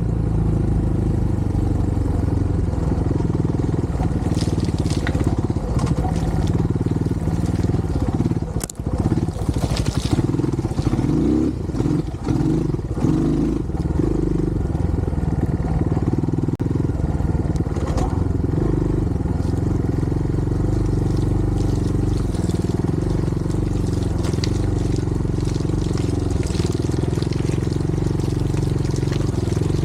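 Dirt bike engine running steadily at low revs, with a stretch of uneven revving about ten to thirteen seconds in.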